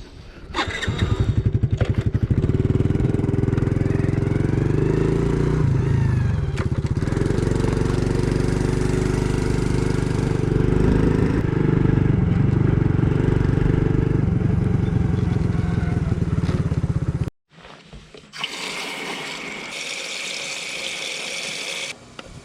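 An engine running steadily with a rapid firing rhythm, which cuts off abruptly after about seventeen seconds. A quieter steady hiss follows.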